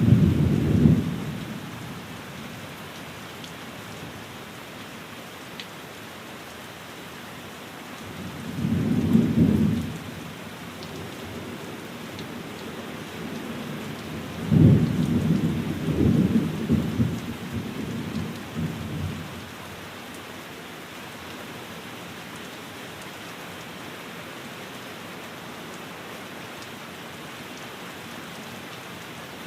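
Steady rain falling on a window, with rolls of thunder. A rumble comes right at the start, another about nine seconds in, and a longer, broken one runs from about fifteen to nineteen seconds.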